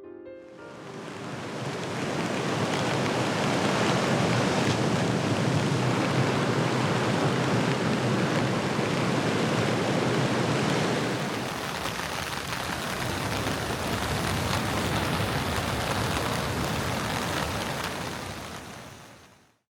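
Steady rushing water noise, fading in over the first couple of seconds and fading out near the end.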